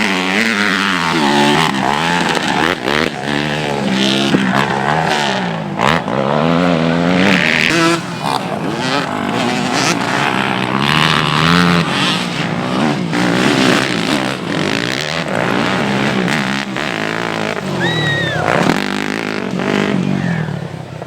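Several motocross motorcycles with their engines revving hard. Their pitch climbs and drops repeatedly, and the engines overlap as the bikes accelerate, shift and back off.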